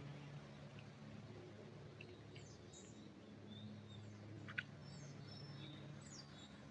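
Faint, scattered high chirps of small birds over a low steady hum, with one sharp click about four and a half seconds in.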